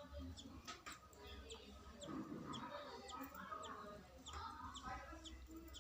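Faint bird calls: clucking-like calls in clusters, over a short high chirp repeated about twice a second.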